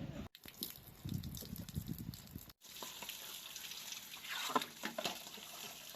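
Water running and splashing, as at a tap or sink, broken by two abrupt cuts.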